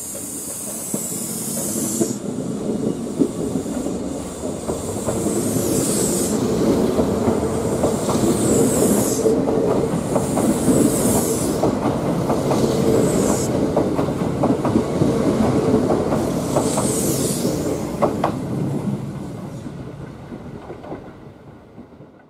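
Kintetsu 21000 series Urban Liner Plus limited express pulling out along the platform, its cars rolling past with a building rumble and wheel clatter. Short high-pitched hissing squeals recur every couple of seconds. The sound fades away near the end.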